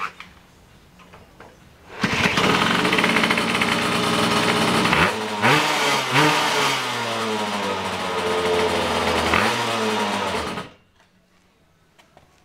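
Home-built motorbike's two-stroke engine catching about two seconds in and running with a few quick revs blipped, the revs then falling before it stops abruptly near the end. These are the first runs of a freshly built engine that still needs tuning.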